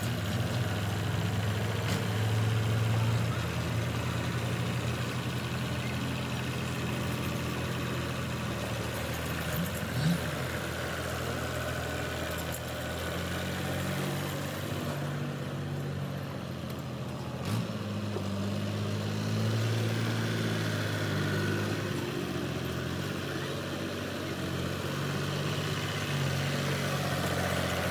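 Tractor engine running steadily at idle, with brief sharp knocks about ten and seventeen seconds in.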